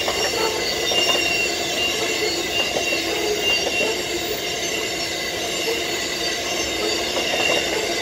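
Grain hopper wagons of a freight train rolling past, their wheels squealing with several steady high tones over the continuous rumble and clatter of the wagons.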